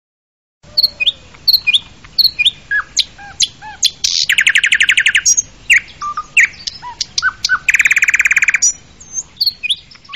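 Songbirds chirping and whistling, many short calls, some sliding in pitch. Twice, about four seconds in and again near eight seconds, a rapid trill of evenly spaced notes lasts about a second. The calls start after a brief silence.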